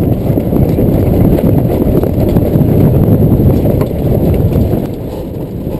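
Strong wind buffeting the microphone on a small sailboat, a loud, uneven low rumble that eases a little near the end.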